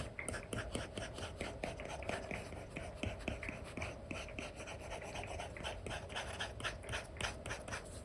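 Apple Pencil 2 with an Elecom nib scratching and tapping across a paper-like screen film on an iPad, in a rapid run of short strokes, several a second.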